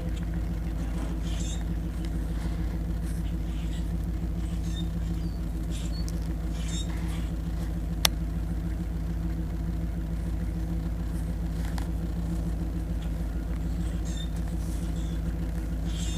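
Car engine idling steadily after a cold start, an even low rumble with no revving. A single sharp click about halfway through.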